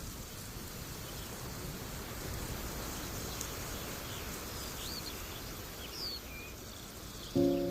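Open-country ambience: a steady hiss of background noise with a few short bird chirps in the middle. A chord of sustained musical notes comes in near the end.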